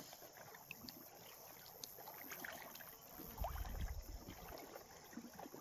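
Quiet water lapping, with scattered small ticks and a brief low rumble just past halfway.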